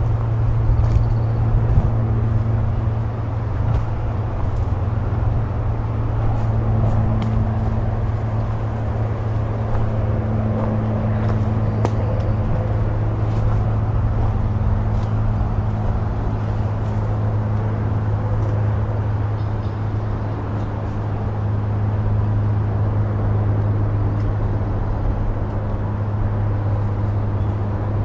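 Steady low rumble of road traffic, with footsteps crunching on the trail as scattered clicks over it.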